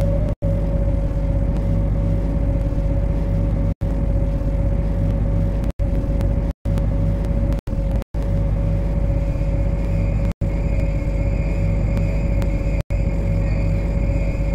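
Steady low rumble and hum of an MTR C-Train heard from the driving cab, with a constant mid-pitched tone running through it. Higher steady tones join in about ten seconds in. The sound cuts out completely for an instant several times.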